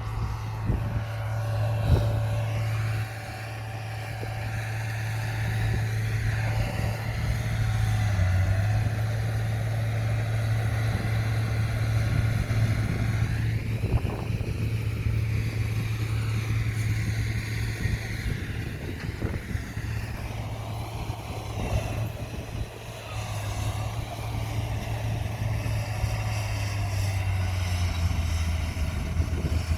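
Komatsu bulldozer's diesel engine running steadily under load while pushing soil, with a few short knocks.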